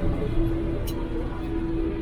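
IFA L60 truck's six-cylinder diesel engine running under way, heard from inside the cab as a low rumble with a steady whine over it.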